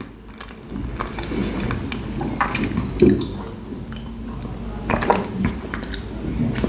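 Close-up mouth sounds of chewing soft, watery baked white pumpkin: wet squishing and smacking with small clicks, a sip of tea from a glass about halfway through, and another bite later on.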